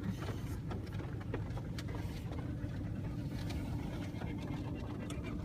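Steady engine and road hum inside a moving car's cabin, with scattered light ticks over it.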